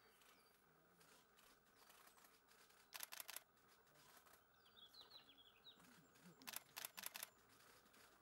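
Faint splashing of a female red-flanked bluetail bathing in shallow water: two short bursts of quick flicks, about 3 s in and again near 6.5 s. Between them, a bird gives a faint run of short, high, falling chirps.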